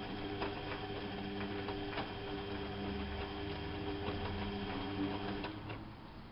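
Bauknecht WAP 6460 washing machine turning its drum mid-programme: a steady motor hum with light clicks and knocks, which winds down and stops about five and a half seconds in.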